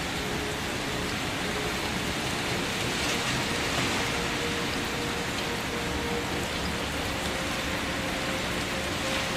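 Steady rain falling, an even hiss of many drops that swells slightly a few seconds in, with faint steady tones beneath.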